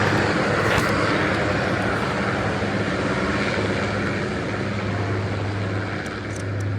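Marine One presidential helicopter flying away: a steady low drone of rotor and engine, slowly fading.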